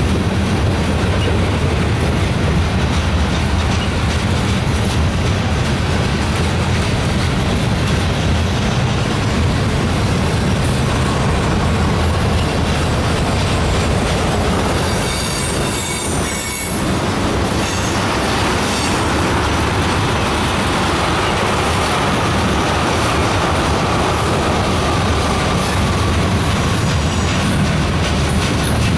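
Freight cars rolling past on curved track: a steady rumble and clatter of steel wheels on rail. A faint high wheel squeal comes in about a third of the way through and grows stronger past the middle.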